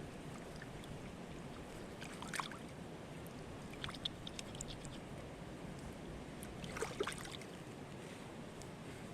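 Mountain stream running steadily, with three short clusters of small clicks and knocks about two, four and seven seconds in.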